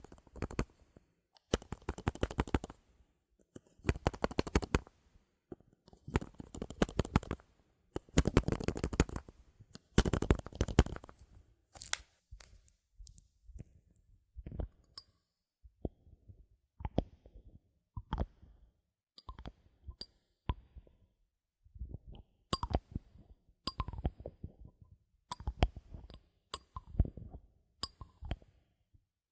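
Bottle caps handled close to the microphone: several bursts of rapid ratcheting clicks, each about a second long, as a cap is twisted, then sparser single clicks and light taps in the second half.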